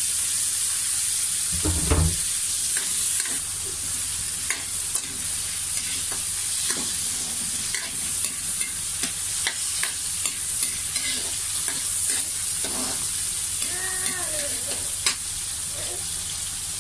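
Onion and freshly added garlic sautéing in oil in a wok, a steady sizzle, while a ladle stirs and scrapes the pan with scattered clicks. One heavier knock of the ladle against the wok about two seconds in.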